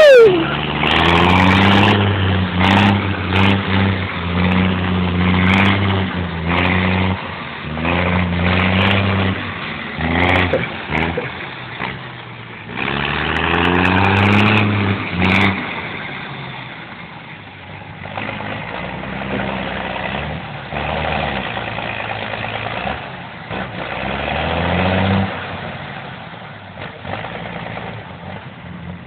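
M35 deuce-and-a-half army truck engine revving up and easing off again and again as the truck is driven over rough ground, with sharp knocks and rattles here and there as it hits bumps; it gets quieter in the second half.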